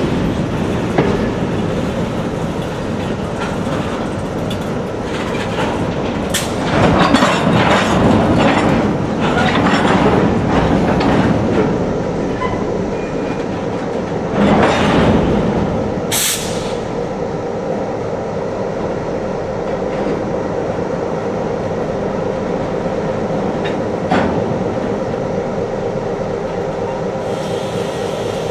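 Freight train of covered hopper cars rolling slowly, with wheels clicking and clanking over the rails and sharp high wheel squeals about six and sixteen seconds in. After that it settles into a steady rumble and hum of the diesel locomotives as the train eases to a near stop.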